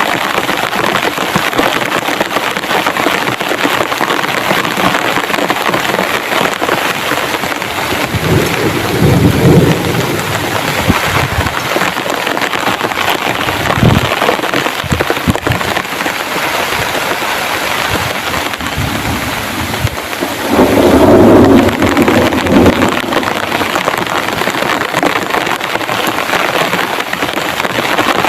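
Heavy rain falling steadily and loudly, with thunder rumbling twice: once about eight seconds in and again, louder, about twenty seconds in.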